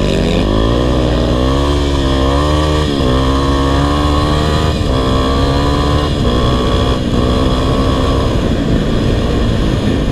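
Four-stroke single-cylinder dirt bike engine running under way, its pitch rising and falling with the throttle, with brief breaks about 3, 5 and 7 seconds in.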